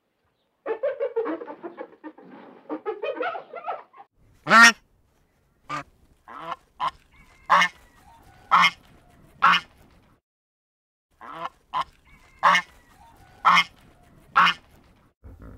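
Birds honking. About three seconds of rapid, overlapping chattering calls come first, then one loud call, then two runs of three loud honks about a second apart.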